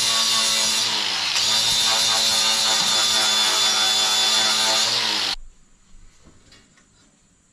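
Electric power tool's motor running at speed on steel, its pitch dipping briefly about a second in as it is loaded, then switched off about five seconds in, winding down with a falling pitch. Faint ticks follow.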